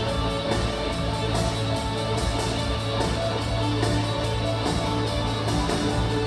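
Live band music recorded from the audience, an instrumental passage without vocals, playing steadily.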